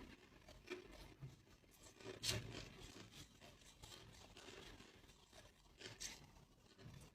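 A person biting and chewing a chunk of clear ice, giving faint, irregular crunches. The loudest comes about two seconds in, with another sharp crack near six seconds.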